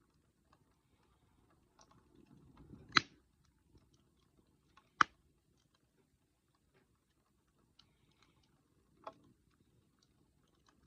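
Wood campfire burning with faint steady crackling, broken by two sharp pops about two seconds apart and a quieter pop near the end.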